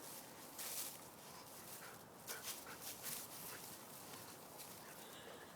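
A dog digging in sand: faint, irregular scratching and scuffing strokes of its paws.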